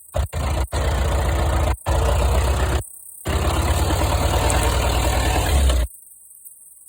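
Daihatsu Taft 4x4's engine running with an even low pulse, broken by several abrupt cuts, then stopping suddenly about a second before the end.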